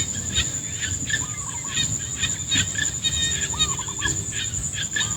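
Rice-field wildlife chorus: a steady high-pitched insect drone under rapid, repeated chirping, with a short call of about three arching notes repeating roughly every two seconds.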